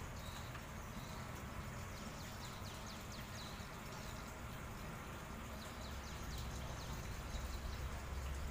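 Open-air riverside ambience: a steady low rumble under faint, rapid, high chirps of small birds, thickest through the middle. The low rumble grows a little louder after about six seconds.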